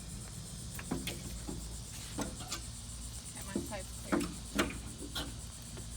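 Scattered light clicks and knocks of PLYLOX stainless-steel hurricane clips being pried loose from a window frame with the back of a hammer and the plywood board handled, over a steady chirring of insects.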